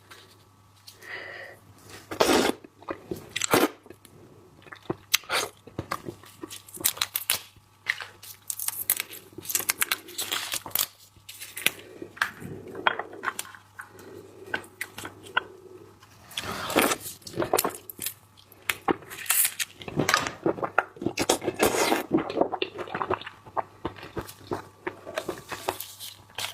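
Close-miked mukbang eating sounds: irregular wet chewing and sharp crunching and crackling bites while eating seafood, in clusters with short pauses between them.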